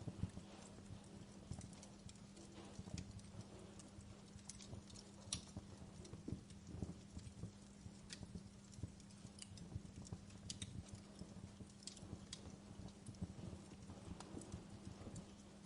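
Wood fire crackling quietly, with irregular small pops and clicks over a faint steady low hum.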